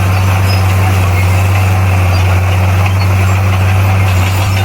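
Diesel engine of heavy earthmoving machinery running steadily with a constant low hum.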